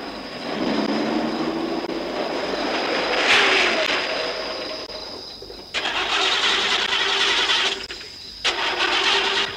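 A car engine running, then from about six seconds in an engine being cranked on the starter in two bursts that each cut off abruptly.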